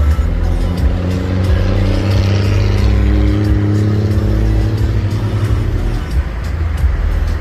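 A motor vehicle's engine running with a steady hum that stops about six seconds in. It is heard over a heavy low rumble and scattered clicks.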